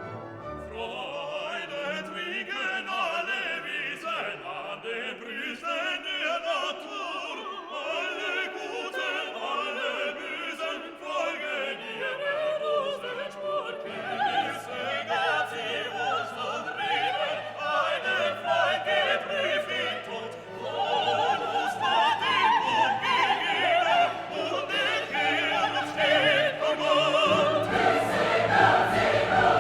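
Orchestral classical music with operatic or choral singing, growing louder with a fuller bass near the end.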